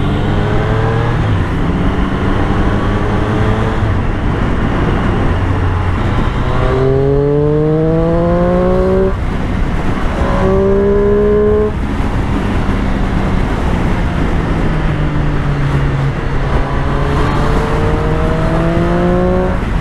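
Triumph Street Triple's inline-three engine running under way over wind rush. The revs climb from about six to nine seconds in, drop at a gearchange, then settle to a steady cruise before rising slowly again near the end.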